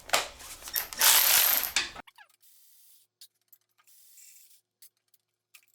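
Ratchet wrench clicking as the small 10 mm bolts of the engine's front timing cover are undone, with a dense run of fast clicking about a second in. After about two seconds it falls to a few faint, scattered clicks.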